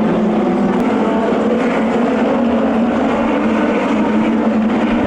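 Several lightning sprint cars running together on track, their motorcycle engines making a steady drone of overlapping engine notes.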